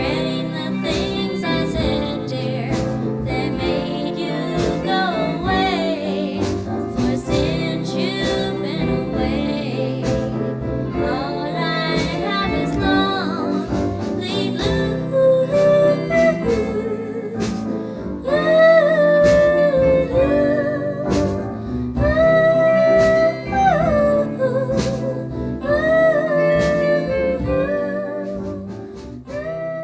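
Early-1960s pop record: a female lead vocal sings over a band accompaniment, with louder held notes in the second half.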